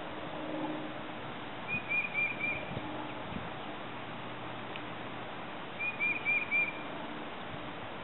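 A bird calling twice, about four seconds apart, each call a quick run of about four short high chirps, over a steady outdoor hiss.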